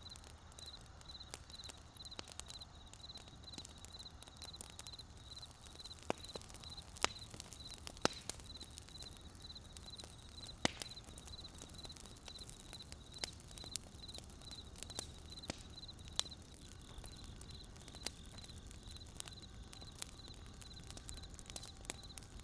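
Wood campfire crackling: irregular sharp pops and snaps over a low steady rumble. A high-pitched chirping repeats about two to three times a second and stops about three quarters of the way through.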